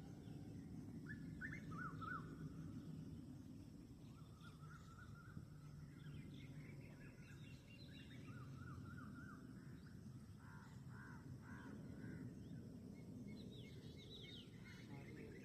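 Faint outdoor ambience: several birds calling in short chirps and runs of repeated trilled notes, over a steady low background rumble.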